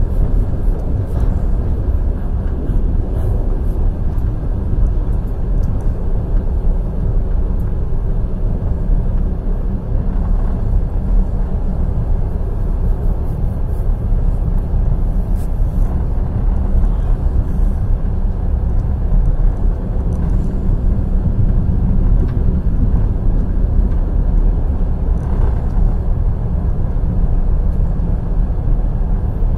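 Passenger express train running at speed: the steady low rumble of the carriage on the rails, with wheel clatter.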